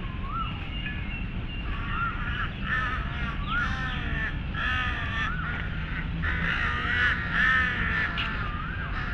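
Birds calling: a run of harsh, repeated calls from about two seconds in, with a short rising call repeating every second or two.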